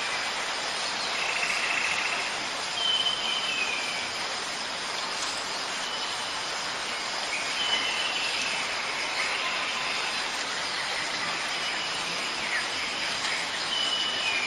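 Steady rain hiss with a few short, high bird calls scattered through it, several of them falling in pitch.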